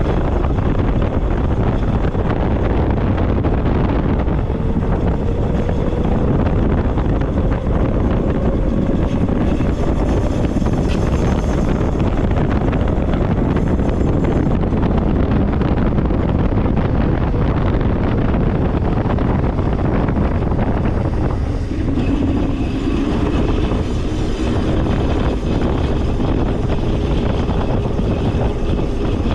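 Wind buffeting the microphone of a moving e-bike, a steady rumble and hiss. Over it a faint whine, typical of the e-bike's electric motor, rises slowly in pitch twice: once about four seconds in and again past the twenty-second mark.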